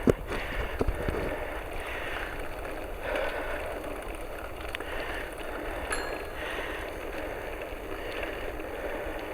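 Bicycle rolling downhill on a backcountry road: steady tyre and wind noise on the microphone, with a few clicks in the first second.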